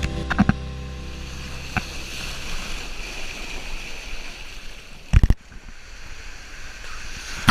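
Ocean surf washing on a beach, a steady hiss of breaking waves. A few sharp clicks come right at the start, and a short cluster of loud low thumps about five seconds in.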